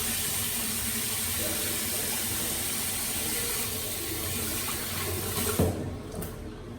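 Water running steadily from a tap into a sink, shut off with a short knock near the end.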